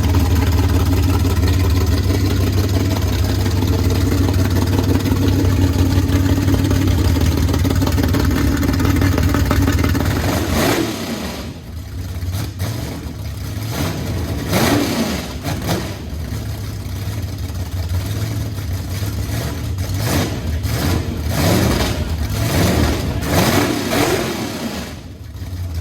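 A car engine running at a steady pitch. From about ten seconds in it is revved up and down repeatedly, its pitch rising and falling several times.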